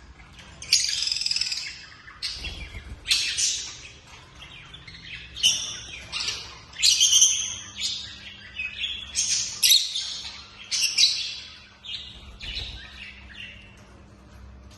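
Lovebirds calling: a long series of shrill, harsh chirps, each about a second or shorter, in quick irregular succession, dying away near the end.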